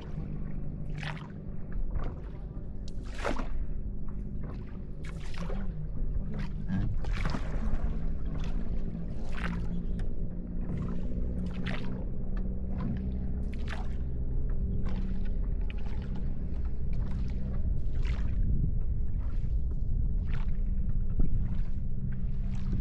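A tour boat's engine running with a steady low hum, while water splashes and slaps irregularly against the hull.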